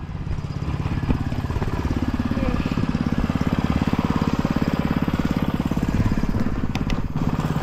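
An engine running steadily at an even speed, with a couple of sharp clicks near the end.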